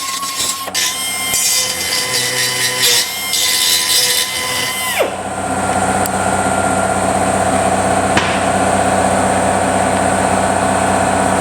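Handheld power tool grinding and drilling on a cracked oil pan, the broken section being cut out, spinning down sharply about five seconds in; a steady machine hum follows.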